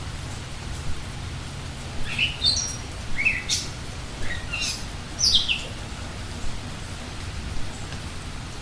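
Birdsong: a quick run of short, high chirps and sliding notes a couple of seconds in, lasting about four seconds, over a steady low background rush.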